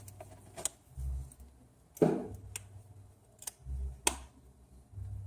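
Scattered sharp clicks and taps of the iPhone 6 Plus replacement screen assembly being pressed and snapped into the phone's frame, with a louder click about two seconds in.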